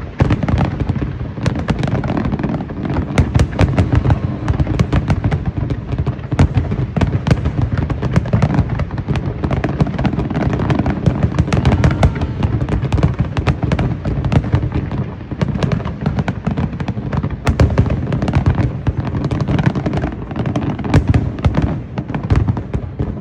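Fireworks display going off in a rapid, unbroken barrage of bangs and crackling, several bursts a second, over a steady low rumble.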